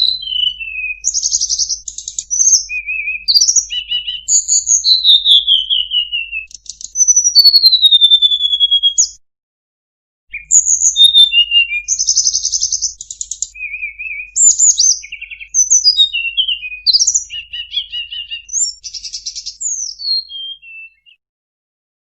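Tledekan gunung (Sunda robin) singing a long, varied song of clear whistled glides, quick chirps and buzzy trills, packed with borrowed phrases; it breaks off for about a second around nine seconds in, then carries on.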